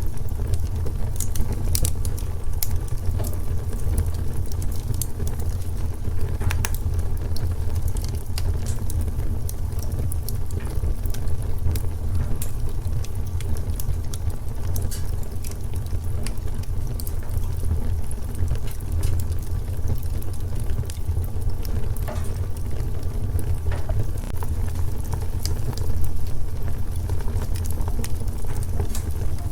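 Wood fire crackling in a fireplace: a steady low rumble with scattered sharp crackles and pops.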